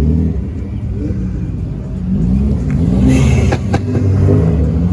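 A performance car's engine revving repeatedly, pitch climbing and dropping several times, with a short hiss and a sharp crack a little past the middle.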